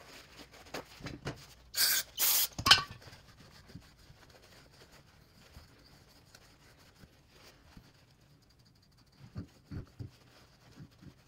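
Aerosol spray cleaner hissing in two short bursts about two seconds in, sprayed into a brake caliper's cylinder to loosen corrosion buildup. A few soft knocks of handling follow near the end.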